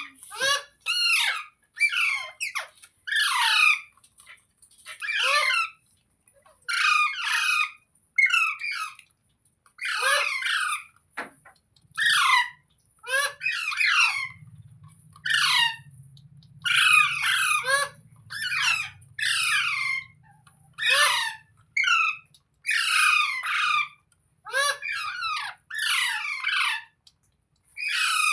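A parrot squawking over and over: about twenty harsh, screechy calls, each under a second long, with short pauses between them.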